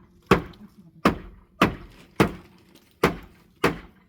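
A hammer striking pallet wood from the top, six hard blows a little over half a second apart, each with a short ringing tail.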